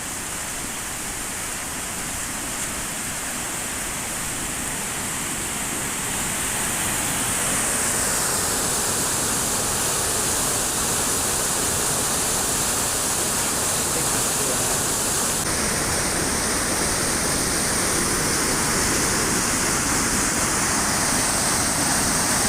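Floodwater pouring over a river weir in spate, a steady, loud rushing; it grows louder over the first eight seconds or so, then holds.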